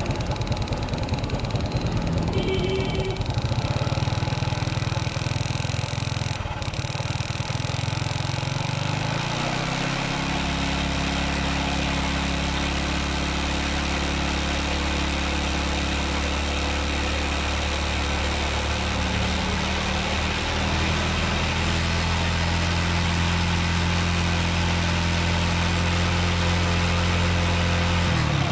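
Motorbike engine running steadily after being fitted with a new ignition IC (CDI), starting with the throttle about half open; about ten seconds in the engine note drops to a lower, even speed and holds there.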